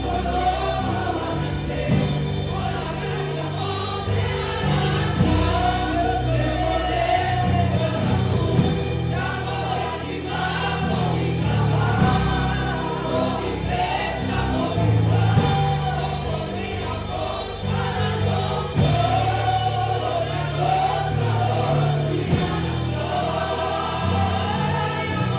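Gospel worship song: group singing in unison with a band's bass, keyboard and drums.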